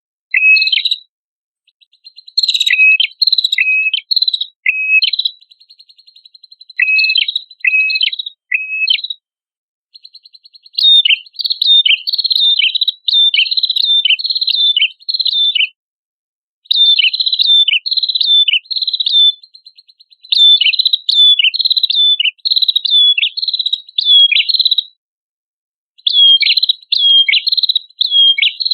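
A prenjak kepala merah, a small Indonesian songbird, singing loud, rapid phrases of sharp, quick chirps over a faint high buzzing trill. The song comes in bursts of a few seconds, separated by short pauses.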